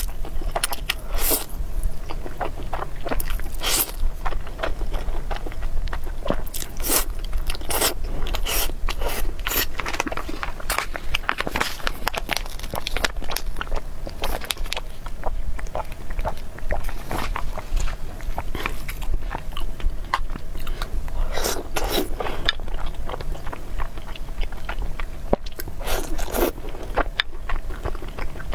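Close-miked eating: a person biting and chewing noodles and meatballs, a steady stream of short, sharp mouth clicks and crunches, with a couple of longer, softer wet sounds near the end.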